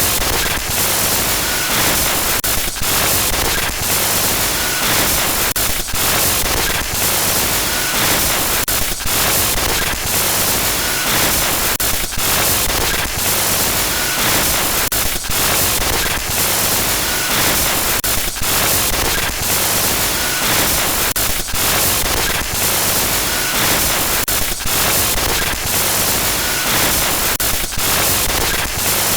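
Loud glitch noise effect: harsh static hiss across the whole range, cut by brief stuttering dropouts about once a second, with a faint short blip recurring every few seconds.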